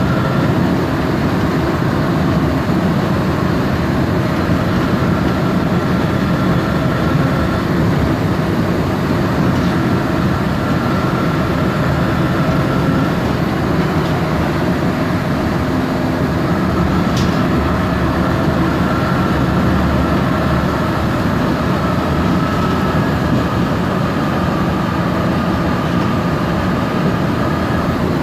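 MAN Lion's Classic city bus under way, heard from inside the cabin: its MAN E2876 LUH03 natural-gas (CNG) engine and ZF Ecomat 6HP504C automatic gearbox running steadily, with a faint high whine that fades in and out.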